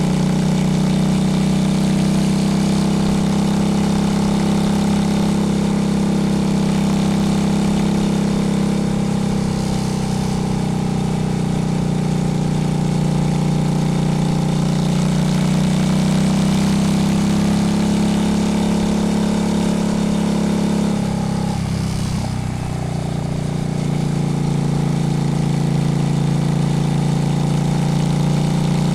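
Honda Shadow's V-twin motorcycle engine running steadily. About two-thirds of the way through, its note falls and dips briefly, then holds steady at a lower pitch.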